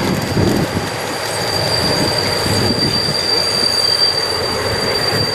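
Passenger train hauled by an SU45 diesel locomotive rolling into a station: a steady high-pitched wheel squeal rings over the rumble of the wheels on the rails.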